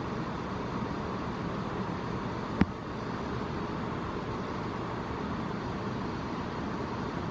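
Steady background noise, like distant traffic, with one sharp click about two and a half seconds in.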